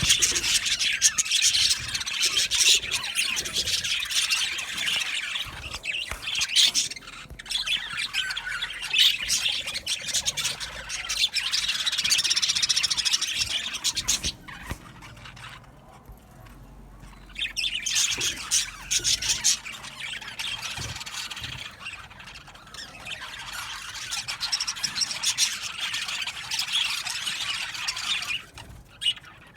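A colony of budgerigars chattering, with many birds chirping and squawking at once. The chatter drops away for a few seconds around the middle, then picks up again and fades out near the end.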